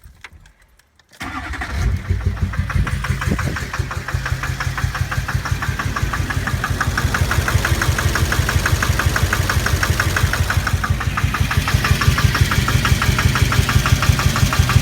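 A 2006 GMC Duramax 6.6-litre V8 turbodiesel starts about a second in and settles into idle with a fast, even knock. The knocking is "pretty good" and the engine "sounds like a helicopter". It is the sign of a failing fuel injector after bad fuel.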